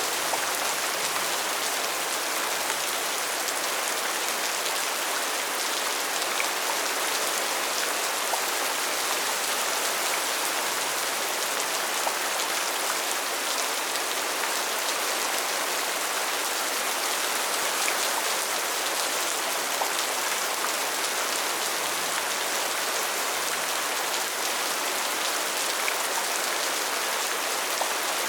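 Steady rain falling, an even hiss of many raindrops with small scattered drop ticks.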